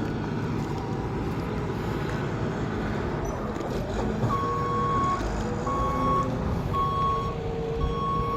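A vehicle's backup alarm beeping about once a second, starting about halfway through, over the steady low rumble of a running engine.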